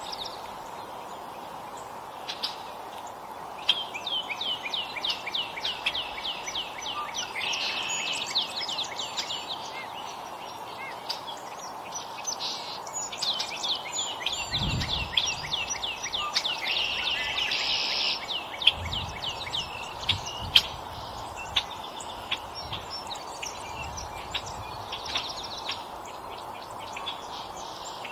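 Songbirds at a feeder chirping: long runs of quick, repeated down-slurred notes, several a second, over a steady background hum. A few sharp clicks and some low thumps come partway through.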